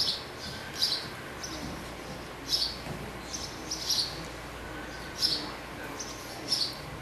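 Short, high chirps repeating every second or so over a steady low background hum, like a small bird calling.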